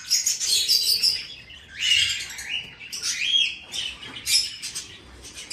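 Budgies chirping and chattering: a run of short, quick chirps with a few warbled calls that bend up and down in pitch, several birds calling over one another.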